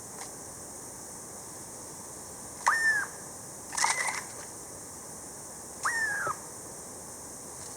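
A bird calling: three short whistled calls a second or two apart, each note rising quickly and then dipping a little, the middle one harsher.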